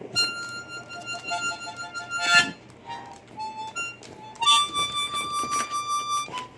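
Harmonica playing bluesy phrases: a long held note, a few short notes, then a second long held note near the end.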